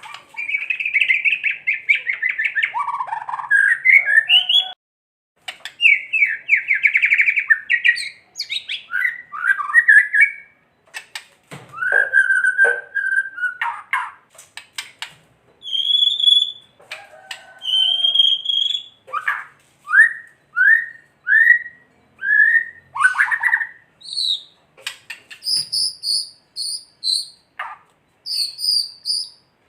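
White-rumped shama singing an agitated, varied song of fast rattling 'kretekan' trills and sliding whistles, with a series of short rising notes in the middle and a run of quick, repeated high notes near the end. This is the rattle-and-song type of recording played as a lure to provoke shamas into singing.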